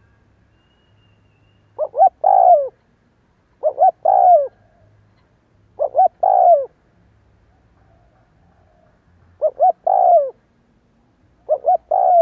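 Spotted dove cooing: a phrase of two short coos and a longer falling one, repeated five times about every two seconds, with a longer pause before the fourth.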